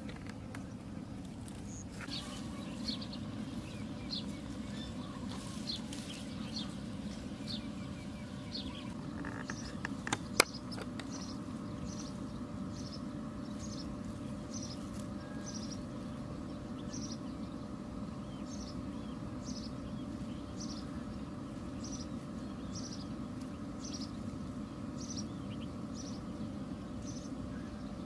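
Outdoor ambience with a low steady hum and a small bird repeating a short, high chirp about once a second, starting about two seconds in. A single sharp click sounds about ten seconds in.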